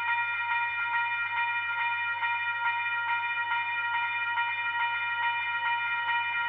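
A warning bell ringing on and on, struck about twice a second with several ringing tones, over a steady low hum.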